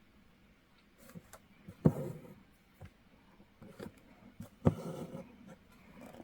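Embroidery needle popping through fabric held taut in a hoop and the thread being drawn through after it: two sharp pops, one about two seconds in and one near five seconds, each followed by a short rasp of thread, with fainter ticks between.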